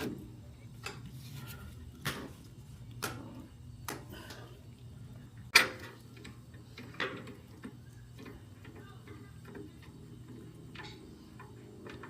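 Hand tools clicking and knocking against motorcycle parts during bolt tightening: sharp single clicks, about one a second at first and fainter later, with one louder knock about five and a half seconds in, over a steady low hum.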